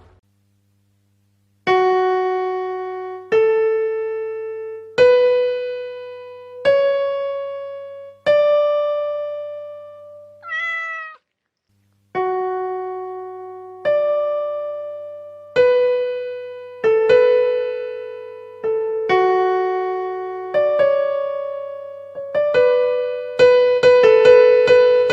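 A slow melody of single piano-like keyboard notes, each struck and left to fade, stepping upward in pitch. A short bending meow comes about ten seconds in, then a brief silence. The melody resumes and quickens into overlapping notes near the end.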